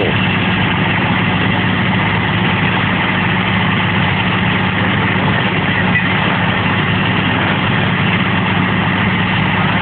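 A vehicle engine idling steadily: an even, unbroken low hum with a steady rushing noise over it.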